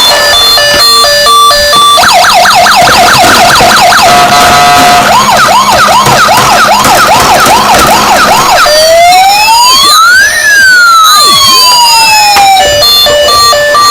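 Electronic siren of a toy RC emergency vehicle, cycling through its patterns: quick repeated rising chirps, then faster rise-and-fall yelps, then one slow wail that rises and falls. A short stepped beeping tune plays at the start and again near the end.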